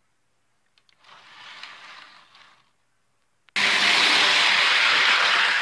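A train rushing past: a softer rushing noise swells and fades about a second in, then a loud, steady rushing noise switches on abruptly about three and a half seconds in.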